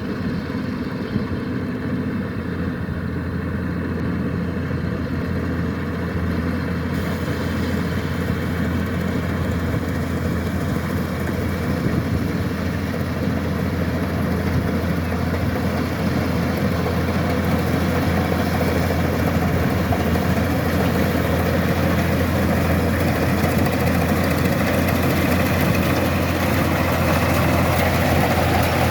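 Kubota DC-105X combine harvester running: a steady low diesel engine drone under a broad mechanical rush that grows gradually louder, with a higher hiss joining about seven seconds in.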